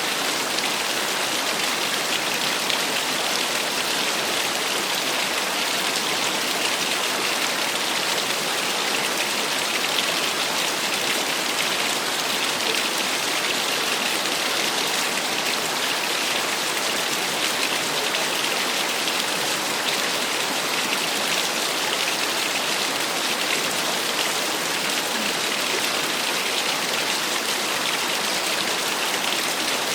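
Small waterfall: water falling and splashing in a steady, even rush that does not change.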